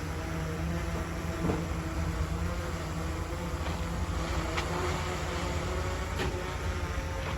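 Heavy diesel engine of earthmoving machinery running steadily, with a few brief knocks.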